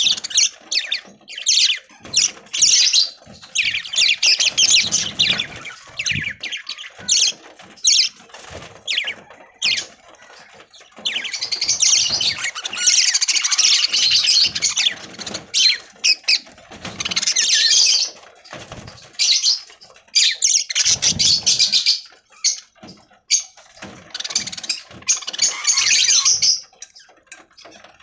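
A flock of budgerigars chattering, chirping and squawking, with dense, irregular calls throughout. Wings flap now and then.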